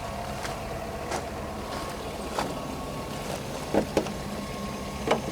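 GMC Yukon Denali's 6.0-litre V8 idling steadily at a very low idle, with a few sharp clicks and knocks over it, the loudest near the end.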